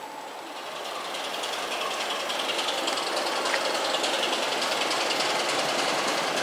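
Diesel-hauled passenger train moving along the platform, growing louder over the first few seconds and then steady, with the rapid clatter of the diesel engine.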